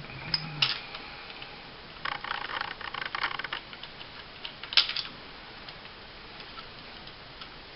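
Small metal clicks and rattles of a 9 mm 1911-style pistol's parts being handled and turned during disassembly: a few clicks early on, a busier cluster about two to three and a half seconds in, and one sharp click near five seconds.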